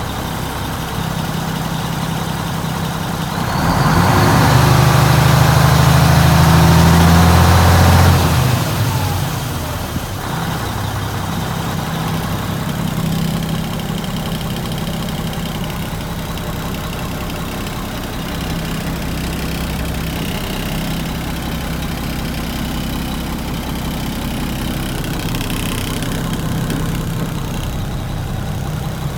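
Diesel engine of a 1999 Mack RD690S truck idling steadily. About four seconds in it is revved and held up louder for around five seconds, then it settles back to idle.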